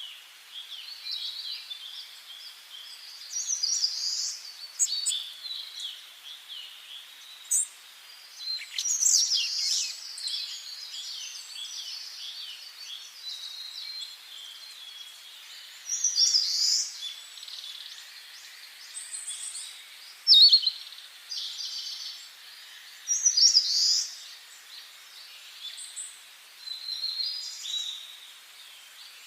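Several songbirds singing and calling over one another in short, bright, varied phrases every few seconds, over a faint steady hiss.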